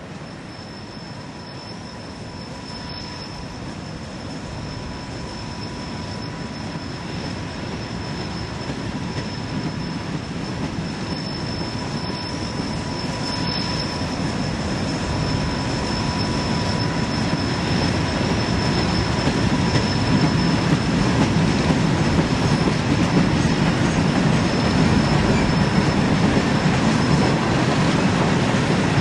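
Freight train led by Burlington Northern–painted diesel locomotives approaching and passing: a low engine and wheel rumble that grows steadily louder, with a thin, steady high-pitched squeal above it.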